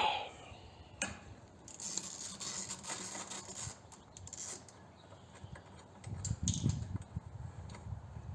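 Handling noise from taking bolts out of a motorcycle body panel: a sharp click about a second in, a couple of seconds of rustling with light metal clinks, then some low knocks near the end.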